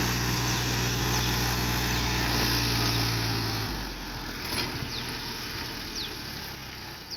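Tractor's diesel engine running steadily, then cutting off abruptly a little over halfway through. A few short, high, falling chirps follow.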